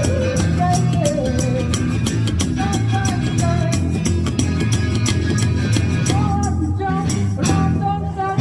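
Rockabilly band playing live: a male singer over a strong bass line, guitar and drums keeping a steady beat.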